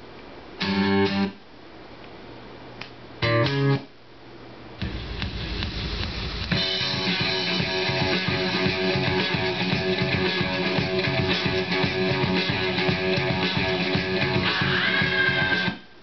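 Guitar rock music played back from a Denon DCD-1300 CD player through speakers: two short snippets under a second each, then the music plays for about eleven seconds and cuts off suddenly near the end.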